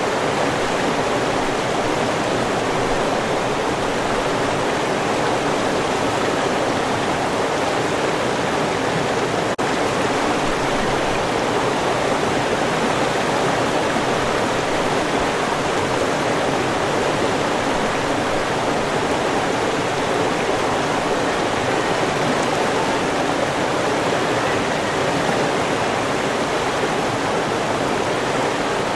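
River water running over rocks, a steady even rushing.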